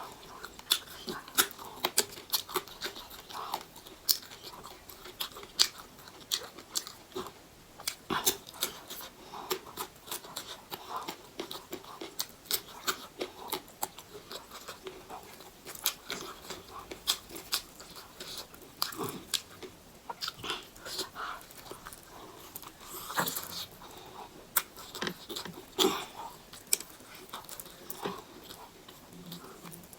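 Close-up eating sounds: chewing and crunchy bites with many sharp mouth clicks and smacks at an irregular pace.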